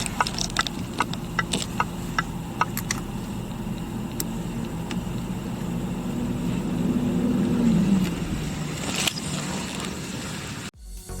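Jaguar XJ's 5.0-litre 508PN V8 running at idle, revved once about six seconds in, its pitch climbing and dropping back about two seconds later. Sharp clicks sound over the idle in the first few seconds, and the sound cuts off abruptly just before the end.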